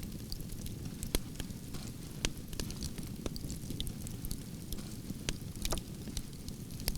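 Campfire of burning branches crackling: irregular sharp pops and snaps over the steady low noise of the flames.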